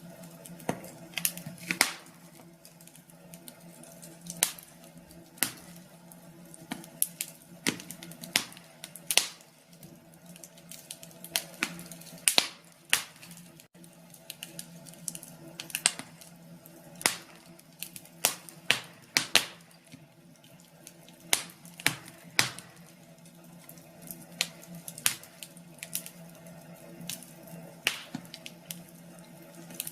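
Wood fire crackling, with irregular sharp pops and snaps of varying loudness over a low steady hum.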